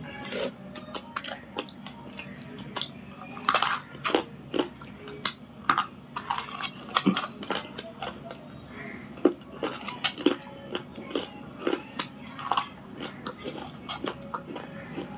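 Crisp, irregular crunching and snapping as slate pencils and a grey chalk-like material are bitten and chewed, several sharp cracks every second.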